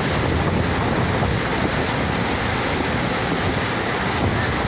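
Steady rush of water pouring over a FlowRider surf simulator's wave surface, with no breaks or separate impacts.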